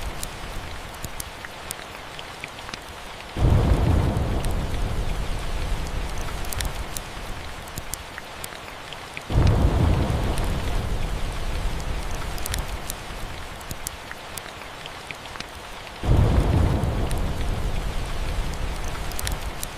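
Steady rain with three rolls of thunder, each starting suddenly, about three, nine and sixteen seconds in, and rumbling away over several seconds. Sharp crackles of a wood fire are scattered throughout.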